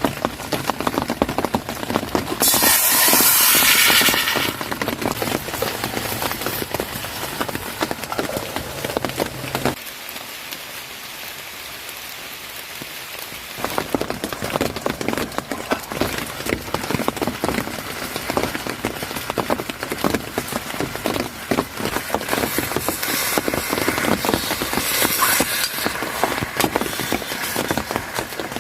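Heavy rain: a dense pattering of countless drops. A louder hiss swells briefly about three seconds in and again near the end, and the patter goes softer and thinner for a few seconds around the middle.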